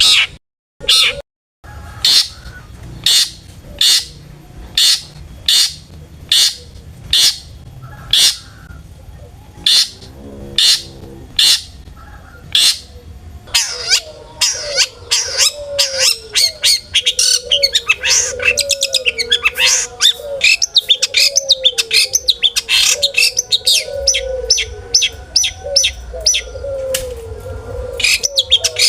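Long-tailed shrike (cendet) singing: a series of sharp calls about one every 0.8 s, turning about halfway into a denser, faster run of notes with lower warbled notes beneath.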